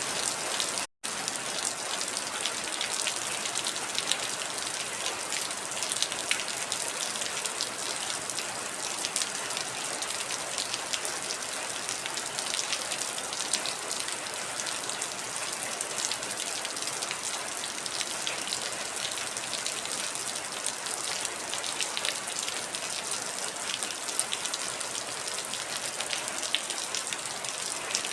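Heavy rain falling steadily: a dense, even hiss with many small drop ticks. The sound cuts out for an instant about a second in.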